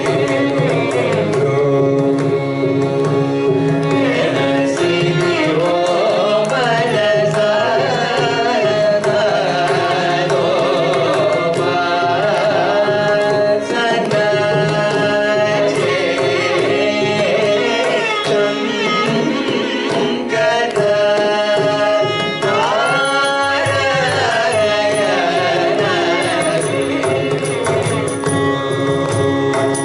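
Carnatic vocal music: singers carrying a melody full of sliding ornaments, accompanied by violin, with mridangam drum strokes throughout.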